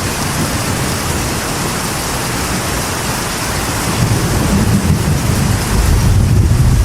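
Steady rain drumming on a metal roof, with a deep roll of thunder building about four seconds in and growing louder toward the end.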